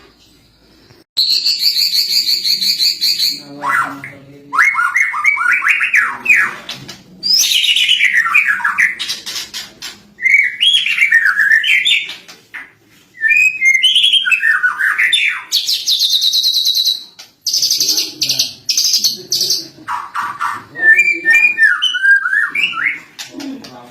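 Lovebird singing its cililin-style song fill in bursts of one to three seconds, with short pauses between them. High, rapid trills alternate with quick warbling phrases that sweep up and down.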